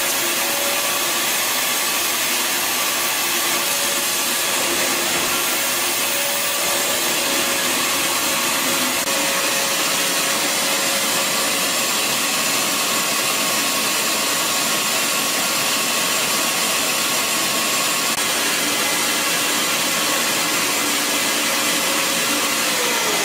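Bissell Garage Pro wet/dry vacuum's 12-amp motor running steadily in suction mode, a loud even rush with a steady whine. Right at the end the pitch starts to fall as the motor winds down.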